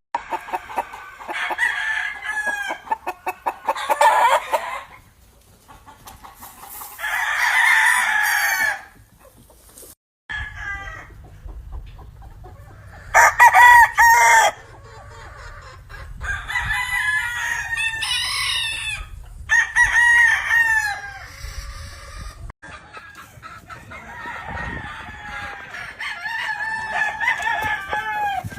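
Gamefowl roosters crowing again and again, several long crows overlapping, with clucking between them.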